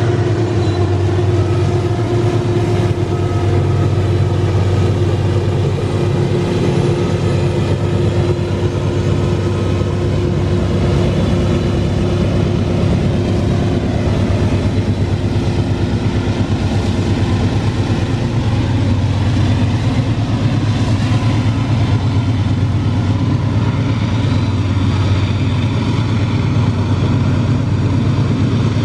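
Loaded iron-ore freight train passing: diesel-electric helper locomotives running with a steady low engine drone over the continuous rumble of the ore wagons on the rails. A higher steady hum in the mix stops a little past halfway.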